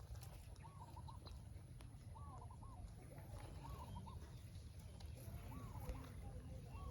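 A bird calling faintly, a short wavering phrase repeated about every second and a half, over a low steady rumble.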